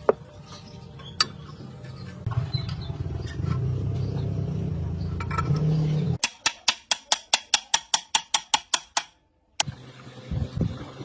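A low steady machine hum, then a rapid run of about fifteen sharp knocks, roughly five a second, that stops suddenly.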